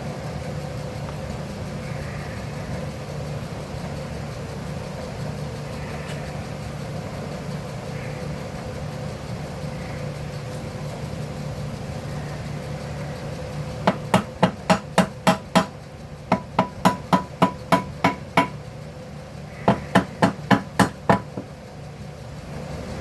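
A hammer tapping quickly on the metal tabs of an engine cover to loosen it, in three runs of rapid ringing strikes in the last third. Before that there is only a steady low hum.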